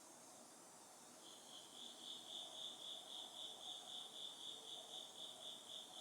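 An autumn cricket chirping in a steady pulsed trill, about three and a half chirps a second, starting about a second in. Fainter, lower insect calls and a soft hiss sit beneath it.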